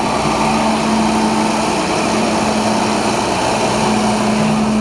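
Farm tractor's diesel engine running steadily, with a steady drone over a wash of machine noise.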